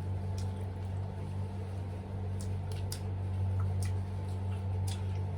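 A steady low electrical hum runs throughout. Over it come a few short, faint clicks and crunches from people eating chicken nuggets.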